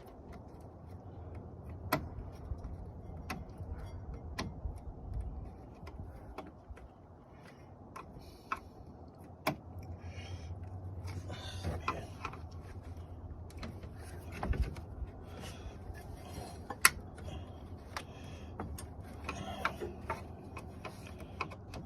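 Irregular sharp clicks and knocks with short rattles, from hand tools and plastic and metal parts being handled while working on a car's radiator fan assembly, over a low steady hum.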